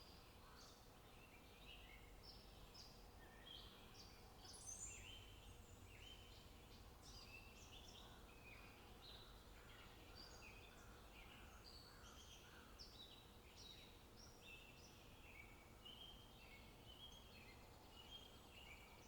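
Faint birdsong: several birds chirping and calling over one another in quick, short notes, with a faint low rumble underneath.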